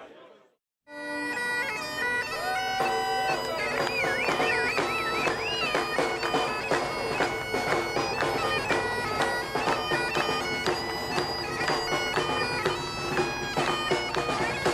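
Bagpipes playing a tune over their steady drones, with quick ornamented notes in the melody. The pipes start about a second in, after a brief silence.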